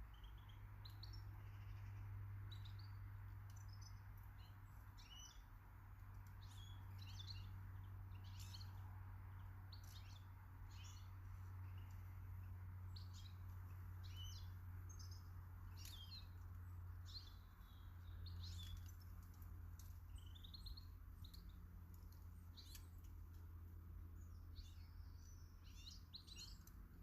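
Small garden birds chirping and twittering faintly, many short high calls in quick succession, over a low steady hum.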